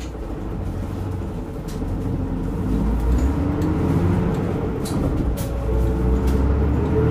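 Nihon Kotsu route bus no. 385 heard from inside the cabin while driving: a steady diesel engine drone, with the engine and drivetrain tone rising in pitch twice as the bus pulls away and picks up speed, and a few light rattles.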